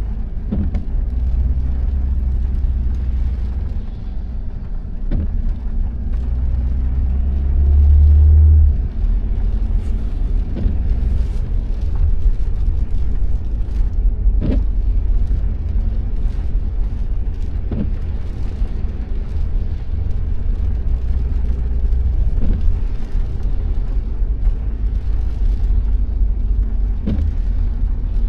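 Steady low road and engine rumble inside a moving car, swelling briefly about eight seconds in, with a sharp short tick every few seconds.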